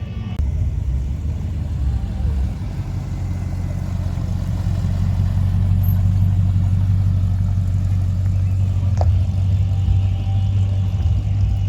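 A motor vehicle running steadily on the road: a low, even engine drone with road noise, growing a little louder partway through. There is a brief click about nine seconds in.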